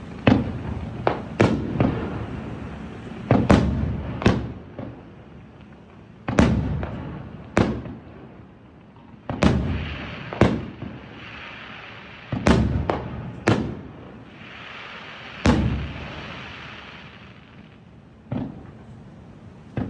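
Aerial fireworks shells bursting one after another, about fifteen sharp booms, each trailing off in a rumbling echo. Two longer stretches of hissing crackle come between the bursts in the middle of the display.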